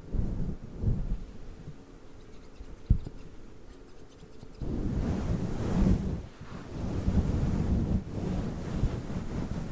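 Fluffy microphone windscreen being rubbed against the microphone, giving a low, rumbling rustle. It eases off for a couple of seconds, with one sharp click near the middle, then comes back louder for the rest.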